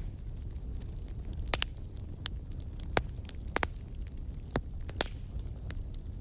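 Fire crackling: irregular sharp pops and snaps, a handful of louder ones spaced a second or so apart, over a steady low rumble of the flames.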